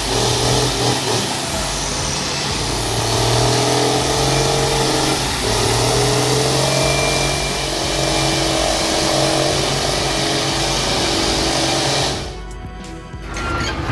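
Valmet 148 tractor's diesel engine running steadily under load while towing a milk truck, its pitch wavering slightly, with background music over it. The sound drops away abruptly about twelve seconds in.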